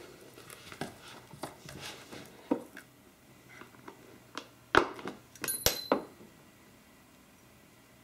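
Small hard clicks and rustles of a 1:200 diecast model airliner being lifted out of its box packaging, ending with a cluster of sharper, louder clicks and knocks about five seconds in.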